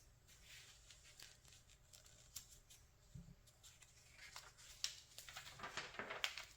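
Glossy magazine pages being handled and turned: soft paper rustles and small crisp ticks, building to a longer, louder rustle of a page turning near the end.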